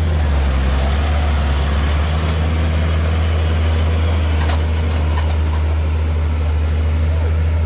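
Heavy diesel engine running steadily, a loud, even low drone that holds without change.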